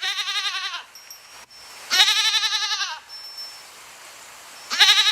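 A goat bleating three times, each bleat a wavering, quavering call of under a second, with short pauses between them.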